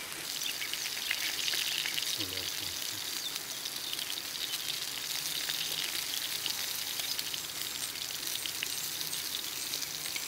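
Steady crackling and sizzling from an outdoor cooking fire, a dense run of fine ticks over a hiss.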